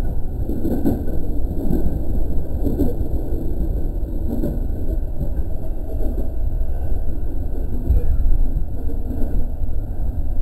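E217 series electric commuter train running along the line, heard from inside the front car: a steady rumble of wheels on the rails and running gear.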